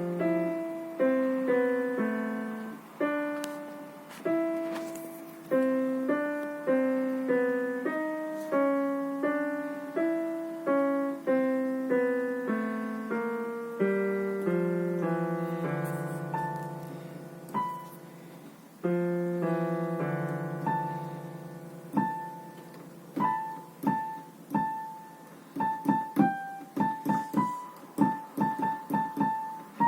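Solo piano playing a melody over lower held notes. About two-thirds of the way through it turns to short, detached strikes, mostly one high note repeated.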